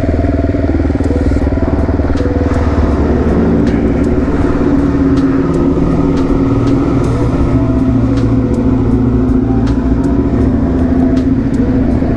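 Suzuki DR-Z400SM single-cylinder four-stroke engine with an FMF exhaust, running at low speed. Its pitch steps up and down with the throttle.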